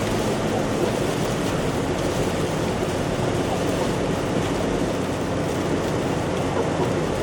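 Car driving on a snow- and slush-covered road, heard from inside the cabin: steady tyre and road hiss over a low engine hum.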